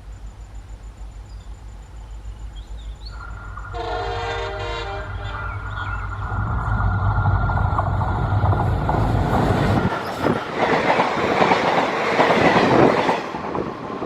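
A passing train: its horn sounds about four seconds in over a low engine rumble. From about ten seconds in comes a loud, noisy rush as it passes close by.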